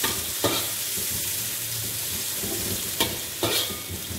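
Chopped garlic and onion sizzling in hot oil in a wok, stirred with a spatula that scrapes against the pan a few times.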